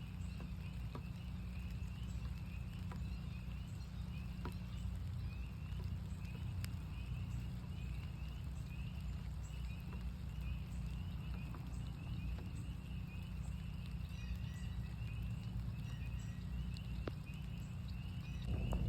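Chorus of northern spring peepers: many short, rising peeps at a high, nearly constant pitch, overlapping in a continuous stream. Scattered sharp drip-like clicks and a steady low rumble run beneath the calls.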